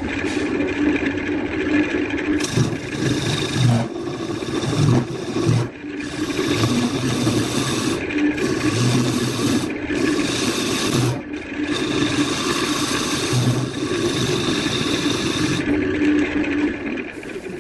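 Wood lathe running, with a tool scraping against the spinning wooden workpiece in repeated passes that break off and resume every second or two.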